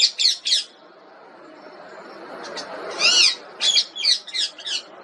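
Pet parrot making a series of short, shrill calls: three quick ones at the start, then a longer call that rises and falls about three seconds in, followed by four or five quick calls.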